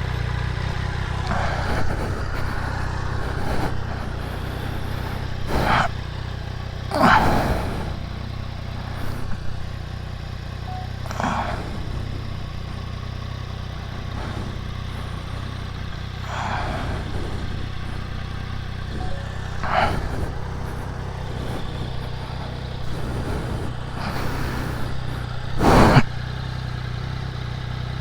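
Triumph Daytona 660's three-cylinder engine running at a steady, unchanging speed, with a handful of brief louder noises breaking in over it.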